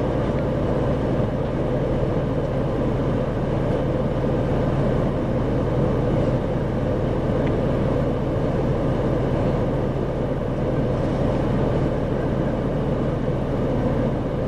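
Isuzu 2RG-LV290N4 city bus heard from inside the cabin, its diesel engine running steadily with a low hum and even road and cabin noise, without revving up or down.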